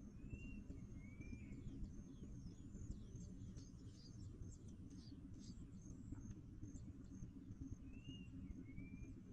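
Small birds chirping: a steady stream of thin, high chirps, with a short two-note whistle about half a second in and again near the end, over a low steady rumble.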